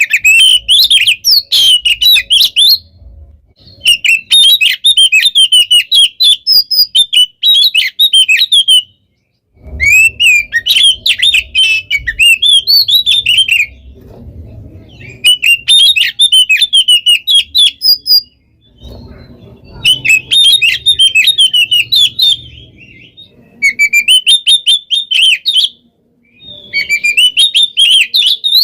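Oriental magpie-robin (kacer) singing loudly in rapid, dense phrases of whistles and trills. There are about eight outbursts of a few seconds each, separated by short pauses. This is the non-stop 'gacor' song of a bird in full breeding condition.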